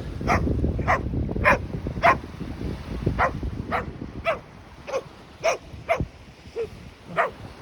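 A dog barking repeatedly in short, sharp barks, about two a second.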